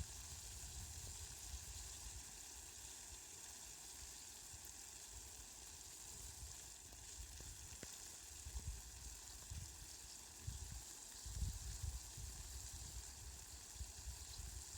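Steady, faint rain hiss. Short low rumbles come and go through the second half.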